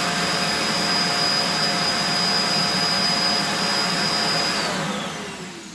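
Roomba auto-empty base running its suction to empty the robot's dust bin: a loud rushing vacuum noise with a steady high whine. About four and a half seconds in the motor spins down, the whine falling in pitch as the noise fades.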